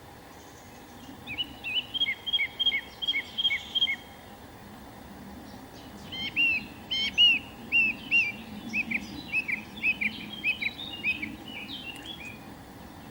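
A songbird calling in two runs of quick, repeated short falling notes. The first run starts about a second in and lasts roughly three seconds. The second, longer run starts about six seconds in.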